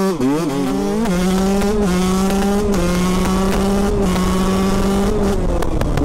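2018 KTM 125 SX two-stroke single-cylinder engine under hard acceleration. It revs sharply through two quick upshifts in the first second or so, then holds a high, steady note. About five seconds in the note drops as the throttle eases off.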